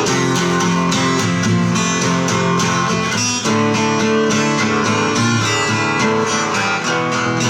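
Acoustic guitar strumming chords in a steady rhythm, with no singing: an instrumental break in the song.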